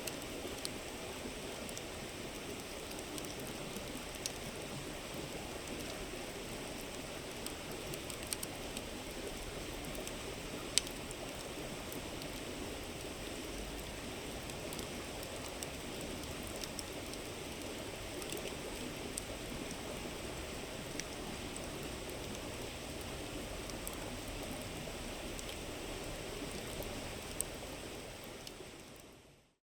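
River water running in a steady babble, with a wood campfire crackling in scattered sharp pops, the loudest about eleven seconds in. Both fade out at the very end.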